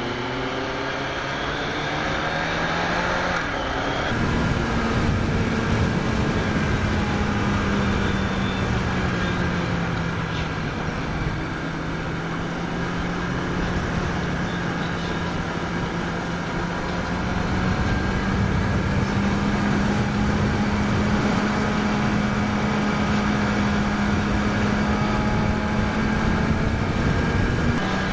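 Sport motorcycle's inline-four engine rising through the revs for the first few seconds, then running at steady cruising revs with wind and road rush.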